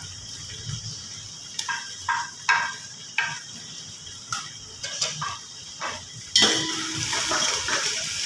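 A spoon knocking and scraping against a steel pot as ginger-garlic paste is put into fried onions in oil, then, about six seconds in, a sudden loud sizzle that keeps going as the paste is stirred into the hot oil.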